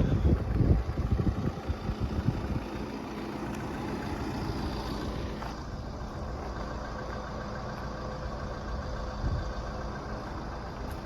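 Gusts of wind on the microphone for the first couple of seconds, then the steady hum of a road vehicle's engine idling.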